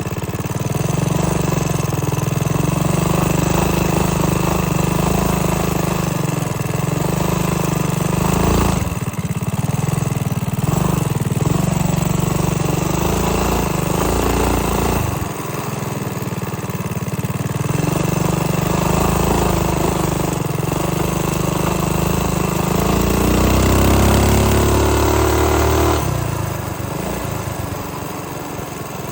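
Mini-bike's small single-cylinder engine running under throttle while riding. It eases off twice, then revs up with a rising pitch near the end before dropping back suddenly.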